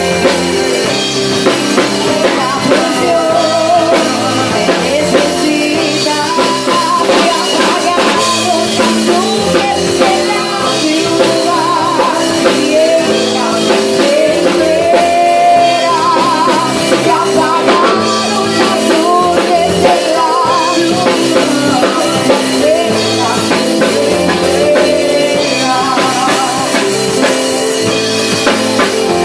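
Band music with a singer: a voice sings with vibrato over a drum kit and other instruments at a steady beat.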